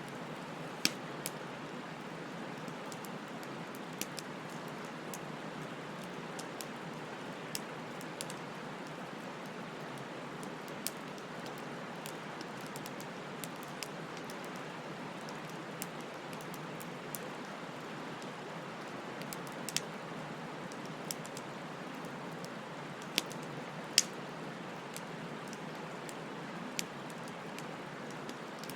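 Wood fire burning: a steady hiss and rustle of flames with scattered sharp crackles and pops from the burning wood, the loudest about a second in and again past twenty seconds in.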